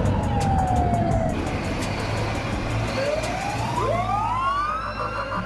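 Police car siren wailing: a slow falling sweep, then about three seconds in a rising sweep joined by a second rising tone, switching near the end to a fast pulsing warble. A steady low rumble sits underneath.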